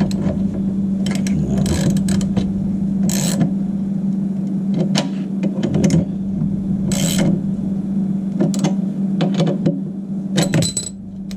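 Ratchet wrench clicking in short runs as the nuts holding a water heater's square-flange heating element are tightened, over a steady low hum.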